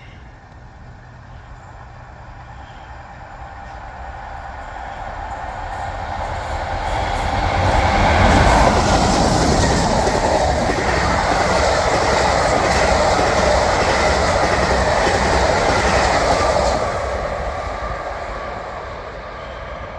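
A train passing close by: it builds up steadily, runs loud for about eight seconds with its wheels on the rails, then fades away as it goes.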